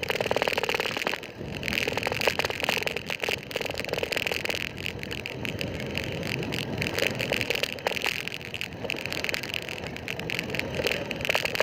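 Bicycle being ridden on a road: continuous rattling with rapid clicking that rises and falls throughout.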